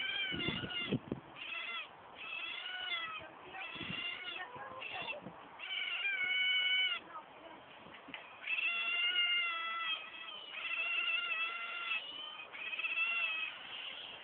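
Asian small-clawed otters giving repeated high-pitched squealing calls, about eight drawn-out whines with short gaps between them, some bending slightly in pitch.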